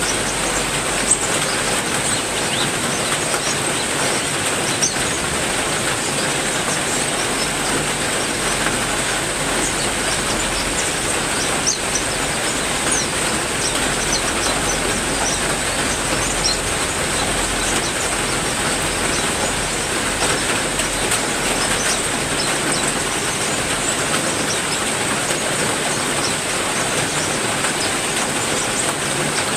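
Heavy rain falling steadily, with short high bird chirps scattered through it.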